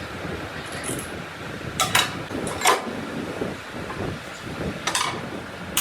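A few sharp metallic clinks and knocks, as of tools and engine parts being handled, over steady workshop background noise.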